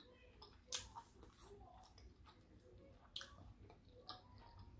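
Faint close-up chewing of a fried catfish nugget, with a few short, sharp mouth clicks.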